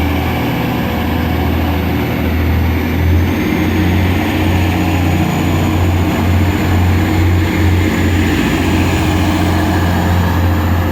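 Class 185 Desiro diesel multiple unit pulling out under power: a loud, steady diesel engine drone, with a faint high whine that climbs slightly from about three seconds in.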